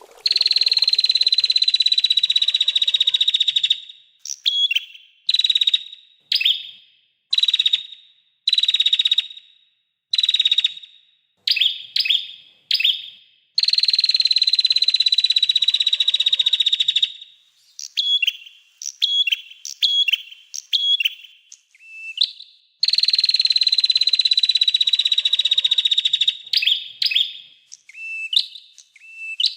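Small songbird singing: three long, fast trills that slide slightly down in pitch, each lasting about three seconds, with runs of short, sharp, separate notes between them.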